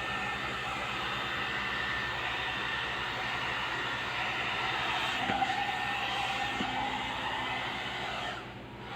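One-step hair dryer and styler (hot-air brush) running steadily: a constant rush of blown air over a low motor hum. It cuts out briefly near the end.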